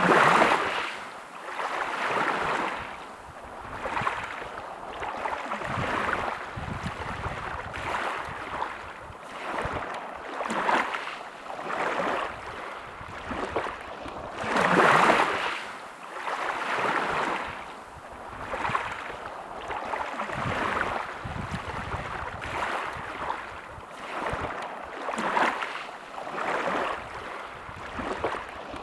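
Sea waves washing onto a beach, swelling and fading every couple of seconds, with bigger waves breaking at the start and about halfway through.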